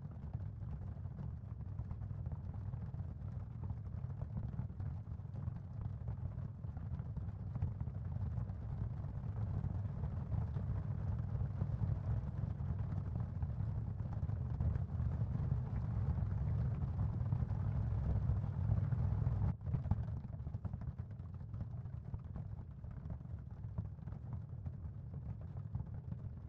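Ambient sound-field track for tinnitus masking and relaxation: a steady, deep noise, strongest in the bass. It swells gradually, cuts out for an instant about 19 seconds in, then continues.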